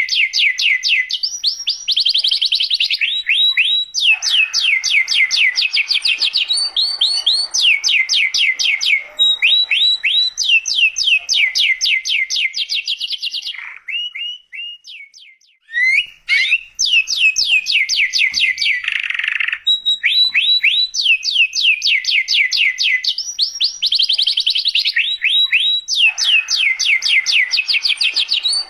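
Domestic canary singing full song: long rolling trills of rapidly repeated falling notes, changing from one trill type to the next, with a brief lull about halfway through.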